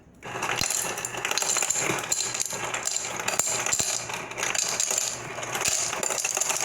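Small hard objects clattering and rattling without a break, a dense run of clicks that is very loud.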